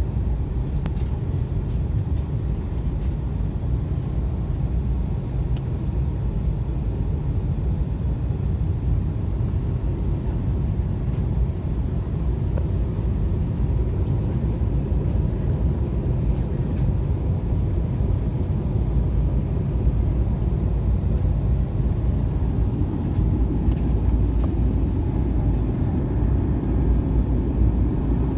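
Steady cabin noise of an airliner in flight, the even low roar of engines and airflow with no rise or fall.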